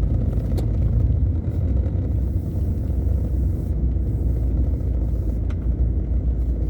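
Steady low rumble of a car driving, heard inside the cabin: engine and road noise, with two faint ticks.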